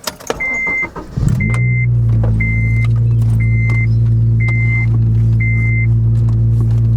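A car engine cranks briefly, catches about a second in, and settles into a steady idle. A high warning chime beeps six times, about once a second, over the starting engine.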